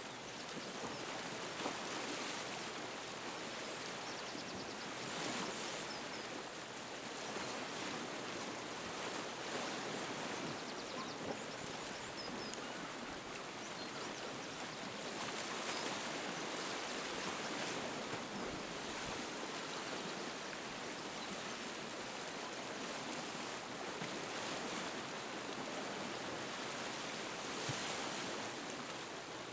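Sea waves washing against the shore, a steady rush that swells and eases every few seconds.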